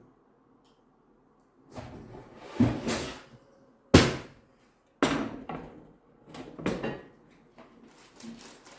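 Kitchen handling noise: a run of knocks, clunks and scrapes after a short quiet start, with the loudest sharp knock about four seconds in and fainter clicks near the end.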